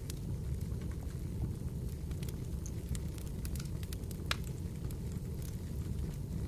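Wood fire in a fireplace crackling: a steady low rumble with scattered sharp pops, one louder pop about four seconds in.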